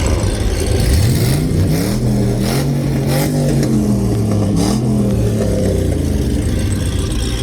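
A car engine revving hard: its pitch climbs steeply about a second in, holds high for a few seconds, then eases off. Several short, sharp cracks are heard while it is high.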